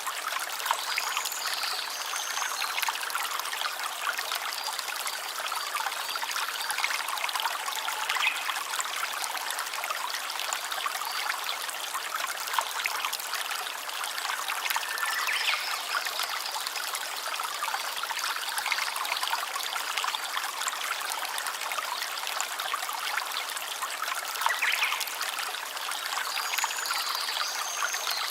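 A small stream trickling and babbling over stones in a steady, even flow.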